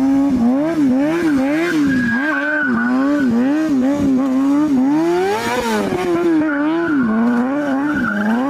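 Motorcycle engine revving up and down in quick throttle pulses, about two a second, as in stunt riding. A thin, high, steady squeal comes in about two seconds in and again near the end.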